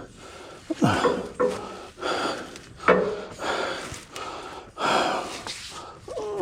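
A man breathing hard and gasping, about one loud breath a second, with a falling grunt about a second in.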